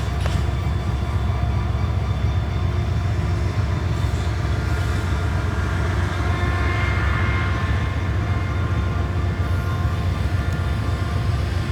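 Diesel-electric locomotive engine idling: a steady low rumble with faint steady whining tones above it.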